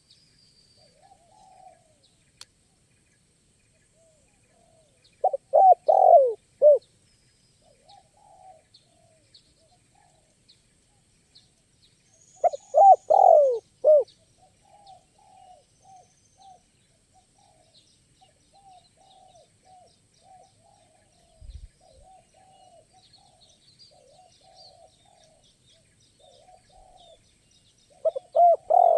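Spotted doves cooing: three loud phrases of several cooing notes, about six seconds in, about thirteen seconds in and right at the end, with fainter, more distant cooing between them. A brief low thump comes about 21 seconds in.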